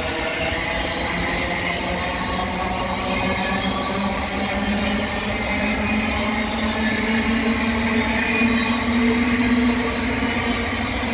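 Thameslink Class 700 electric multiple unit moving past, its wheels rumbling on the rails under a steady whine. The sound is loudest a little before the end.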